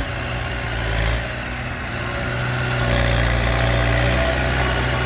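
Kubota M108S tractor's diesel engine running steadily while pushing soil, growing louder about halfway through as it works harder.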